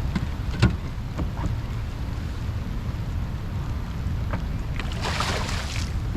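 Wind rumbling on the microphone aboard a kayak, with a few short knocks, the loudest about half a second in, and a brief burst of hiss about five seconds in.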